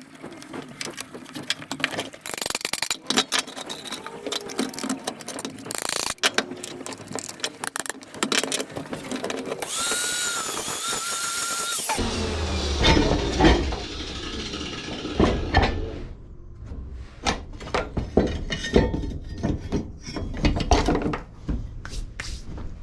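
Hand and power tools working on a lawn mower's front height adjuster: irregular metal clicks, knocks and rattles, with a power tool whining for about two seconds near the middle, followed by heavier clattering.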